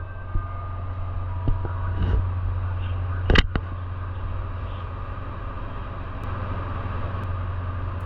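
Steady low running hum and rumble of a moving vehicle, heard from inside, with a sharp double knock about three and a half seconds in.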